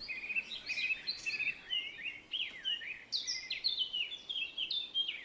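Songbird singing: a continuous run of quick, varied notes, many sliding up or down in pitch.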